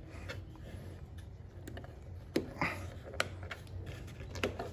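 A few scattered plastic clicks and light knocks as the air filter cover on a Kohler mower engine is opened by hand and the filter handled.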